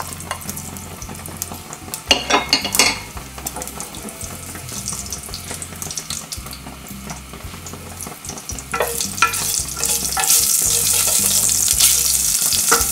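Mustard seeds frying in a tablespoon of hot oil in a small saucepan, crackling and sizzling, with a few knocks about two seconds in. From about ten seconds in the sizzle grows much louder and hissier as the seeds fry.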